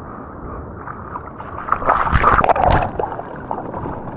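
Seawater splashing and sloshing close to the microphone, loudest for about a second in the middle, over a steady rush of surf.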